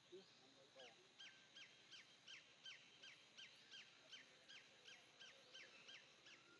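A bird calling faintly: a long run of short, sharply falling notes, about three a second, starting about a second in.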